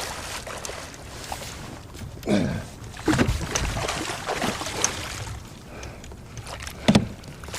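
Water splashing and sloshing against a kayak as a hooked muskie is fought alongside the boat, with a sharp knock just before the end.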